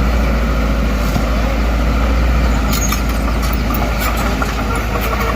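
Heavy diesel earthmoving machine, a bulldozer, running steadily with a low rumble, with a few short metallic clanks about three and four seconds in.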